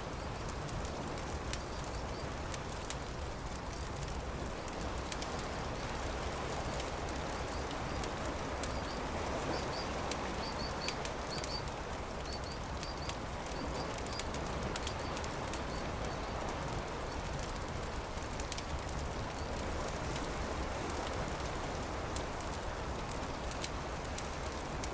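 Campfire crackling with many small pops over a steady rush of beach surf. A few short high bird chirps come about ten seconds in.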